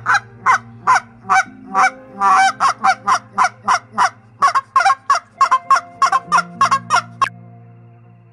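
Domestic geese honking: a run of short calls that quickens from about two to about four a second and stops about seven seconds in.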